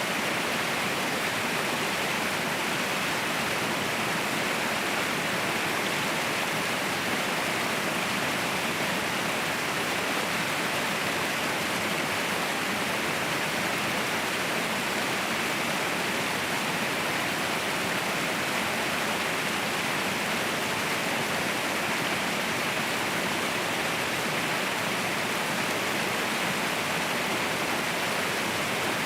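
Waterfall roaring steadily: an even, unbroken rush of falling water, brightest in the upper-middle range, with no changes.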